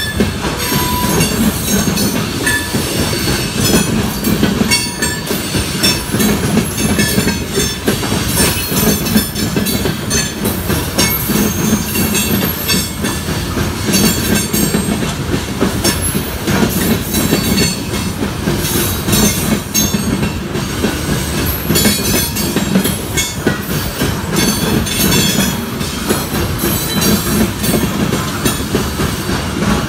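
Freight train of open-top hopper cars rolling past close by: a steady rumble of steel wheels on rail, with frequent clicks as the wheels cross rail joints and a thin wheel squeal now and then.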